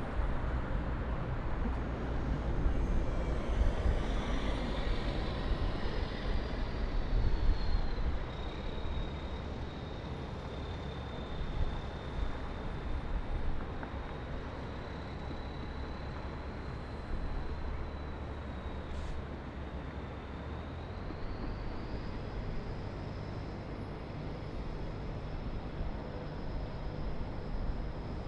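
Distant city traffic: a steady wash of vehicle noise with low rumble, a little louder for the first several seconds. A thin high-pitched whine slides down, holds, then steps up again about two-thirds of the way through.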